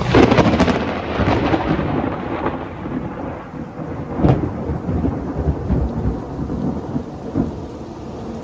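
Thunder over steady rain: a loud crash right at the start that crackles and rumbles away, and another sharp crack about four seconds in, with lesser rumbles between.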